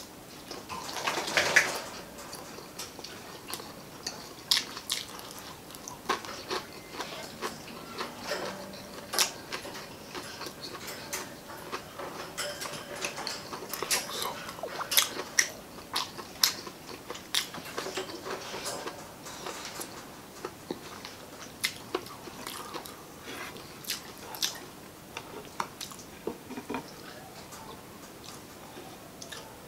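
Close-miked chewing of a mouthful of spicy adobo chicken innards, with many short wet mouth clicks and lip smacks. The loudest bite comes about a second or two in.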